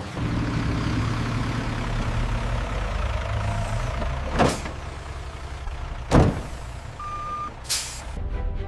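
Factory machinery running with a steady low hum. Two sharp knocks come about halfway through, the second louder, then a short single beep and a brief hiss of air near the end.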